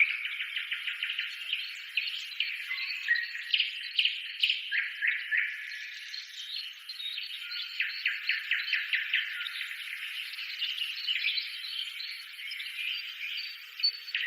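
Birds chirping and trilling, several overlapping calls in quick repeated notes.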